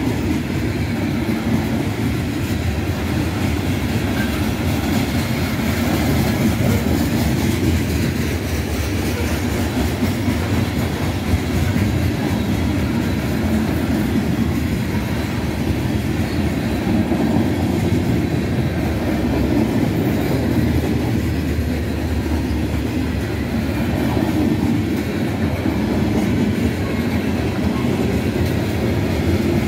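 Freight train cars (covered hoppers and tank cars) rolling past close by: steady wheel-on-rail running noise, heaviest in the low end.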